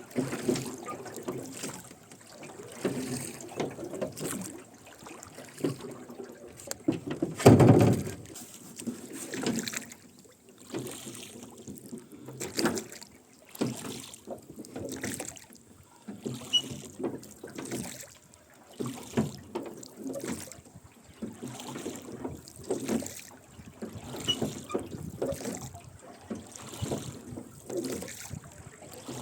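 Rowboat being rowed: oars dipping and splashing with the oarlocks creaking, in a steady stroke about every second and a half. One louder thump comes about seven seconds in.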